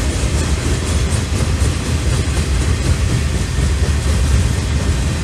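Freight train boxcars and tank cars rolling past: steel wheels on rail make a steady, deep rolling noise that holds level throughout.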